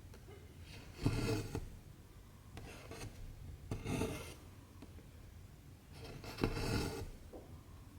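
Cotton embroidery thread pulled through 14-count cross-stitch fabric, making short rasping rubs, about four strokes of half a second each.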